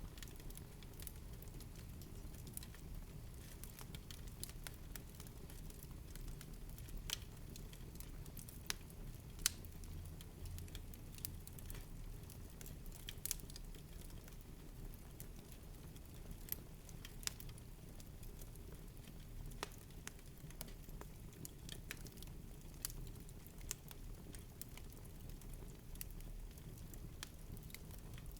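Wood fire burning in a fireplace: a low steady rumble of flame with irregular crackles and sharp pops, a few louder pops standing out.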